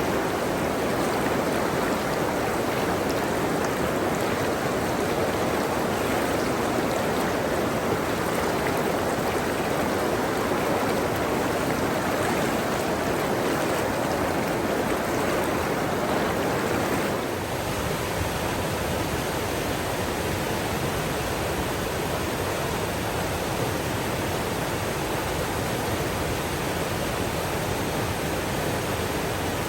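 Steady rush of running water. A little over halfway through it changes abruptly to a slightly quieter rush with more low rumble.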